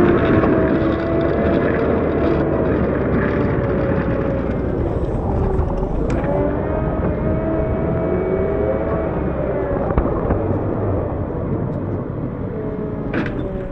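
CAT 908 compact wheel loader's diesel engine running under load while plowing snow, its pitch rising and falling as the throttle and hydraulics change.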